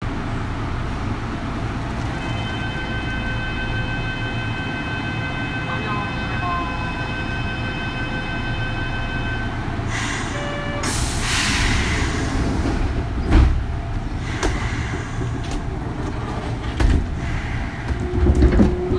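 Interior sound of a Kintetsu 3200 series electric train standing, then setting off: a steady low rumble, a held electronic tone of several seconds, then hissing and a heavy thud. Near the end the early Mitsubishi GTO VVVF inverter starts to whine in rising tones as the train begins to move.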